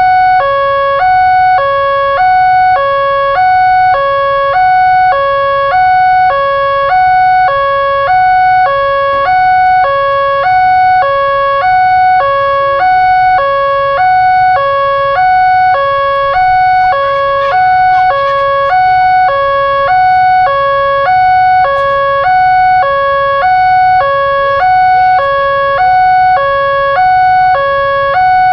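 Electronic two-tone warning alarm of an Indonesian railroad level crossing, alternating a lower and a higher tone about every three-quarters of a second: the crossing's signal that a train is approaching.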